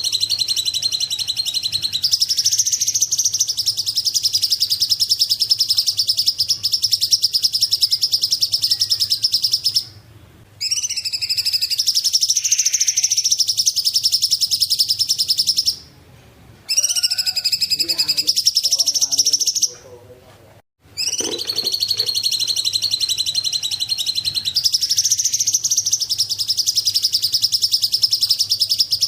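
A small songbird, the bird called 'cungkok' in Indonesia, giving a long, very fast, high-pitched chattering trill that runs on for many seconds. It breaks off briefly three times, about 10, 16 and 20 seconds in. A faint steady low hum lies underneath.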